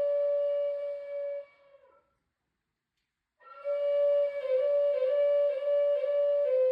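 Flute playing a slow melody: a long held note that fades away about a second and a half in, a pause of about two seconds, then a new phrase of short notes stepping up and down around the same pitch.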